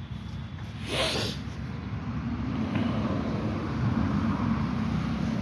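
A short hiss about a second in, then a steady low engine rumble of a motor vehicle that builds slightly and holds.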